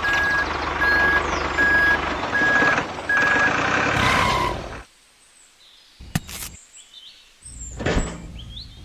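Vehicle reversing alarm beeping at one steady pitch, about six short beeps, over a loud rumbling noise that cuts off abruptly a little before halfway. Two brief sharp noises follow, the louder near the end.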